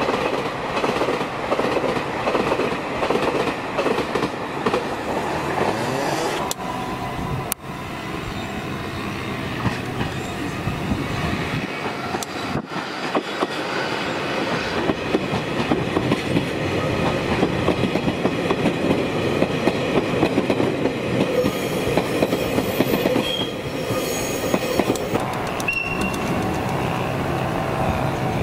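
Electric passenger trains running past on the double track: a steady rumble of steel wheels on rail with a clickety-clack over the rail joints. Near the end come a few short, high wheel squeals.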